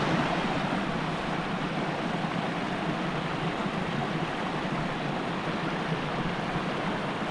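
Steady rush of flowing stream or river water, an even, unbroken noise with no other events.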